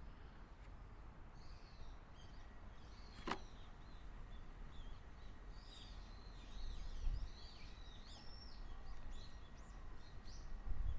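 Small birds chirping in short, rapid, curving notes, with a single sharp click about three seconds in and a low bump near seven seconds.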